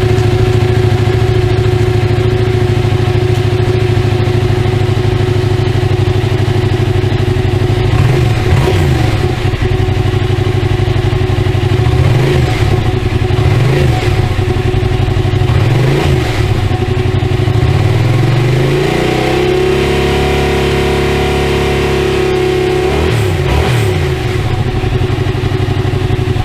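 Yamaha MT-07's two-cylinder four-stroke engine idling, blipped up and back down about four times, then held at raised revs for a few seconds before dropping back to idle, with one more short blip near the end.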